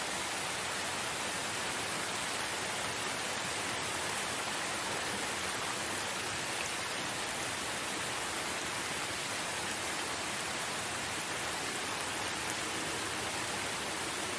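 Steady rain falling, an even, unbroken hiss with no thunder and no separate drops standing out.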